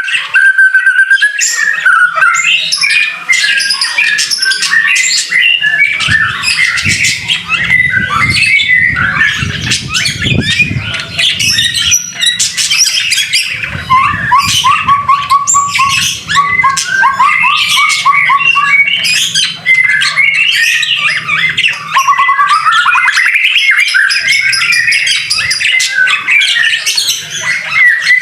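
White-rumped shama (murai batu) singing a long, unbroken and varied song of whistled phrases, quick runs of repeated notes and harsher notes.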